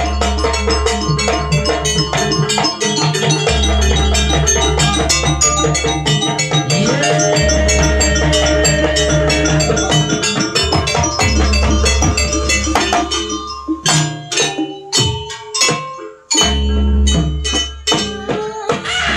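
Jaranan gamelan ensemble playing live: drums and mallet-struck metal percussion over repeated deep gong swells, with a held melodic line in the middle. About two-thirds of the way through, the playing thins to separate strikes, then the full ensemble comes back in.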